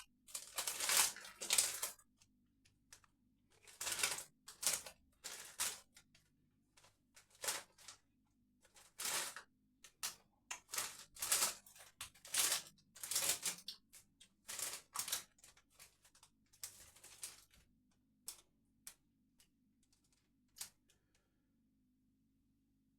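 Potato crisps being crunched while chewed, in irregular bursts for about seventeen seconds, then only a few faint clicks.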